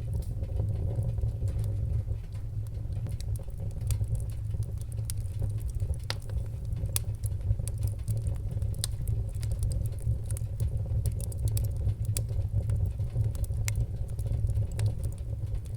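Wood fire burning in a fireplace: a steady low roar of the flames with frequent sharp crackles and pops.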